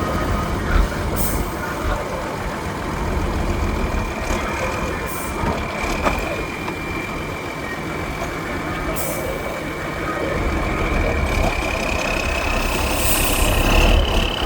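Heavy off-road trial truck's engine running, with a steady high whine that rises in pitch over the last few seconds. Several short bursts of hiss cut through it.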